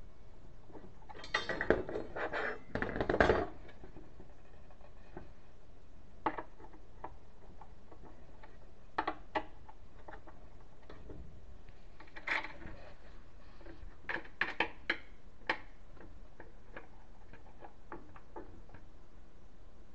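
Metal hardware and tools being handled: a burst of clattering and clinking about a second in, then scattered single clicks and knocks.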